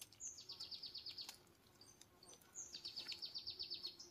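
A small songbird singing, faint, twice: each phrase opens with a short high note and runs straight into a quick, even trill of about a dozen notes lasting about a second.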